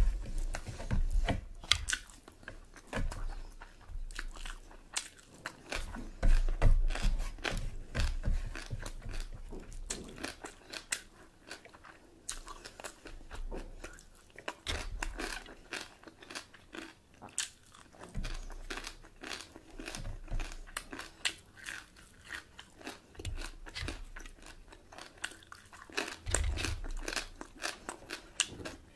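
A person chewing and biting food close to the microphone: a dense run of sharp, crunchy clicks and wet mouth sounds, with a few heavier low thumps.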